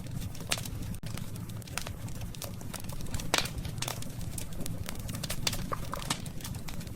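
Campfire of burning wood crackling, with irregular sharp pops and snaps over a low steady rumble of the flames; one pop stands out a little past a third of the way in.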